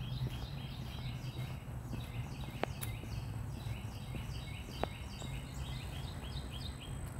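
A songbird singing a rapid run of short, falling chirps, several a second, over a steady low hum.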